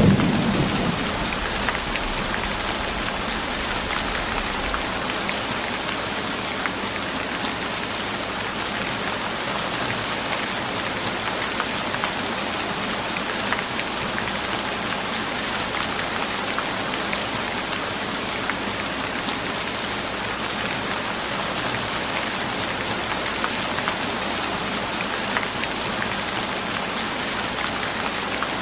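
Steady rain falling, an even hiss with scattered drop ticks. The tail of a thunder rumble dies away in the first second or so.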